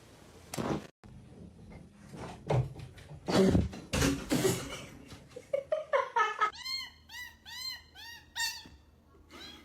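A cat vocalising. It makes a few loud, rough cries in the first half, then a quick run of short meows that rise and fall, about three a second.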